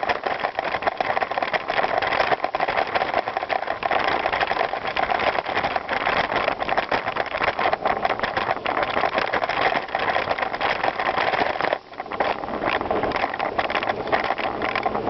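Bicycle riding over gravel: continuous tyre noise with a constant rattle of clicks from the bike. The noise drops away for a moment about three-quarters of the way through, then picks up again.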